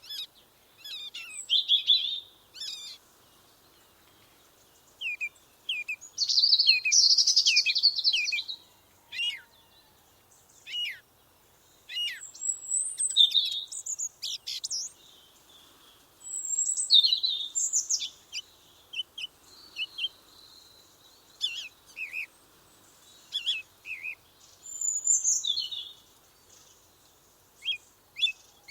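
Songbirds singing: bursts of high chirps, quick trills and short whistled phrases with brief pauses between them.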